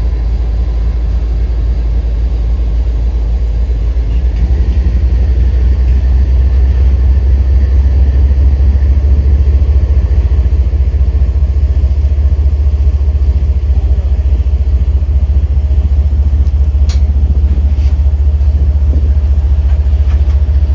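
Diesel freight locomotive rumbling steadily, growing louder about four seconds in.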